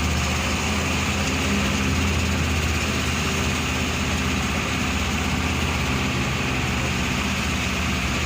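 A vehicle engine running at a steady pitch while driving, with a low hum and a constant rush of road noise.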